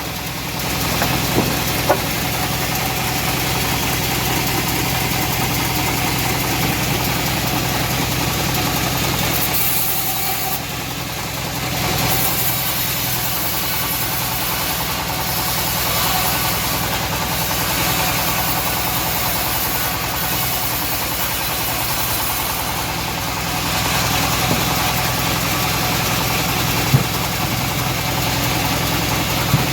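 Engine-driven homemade bandsaw mill running steadily while sawing teak, with a few sharp knocks about two seconds in and near the end.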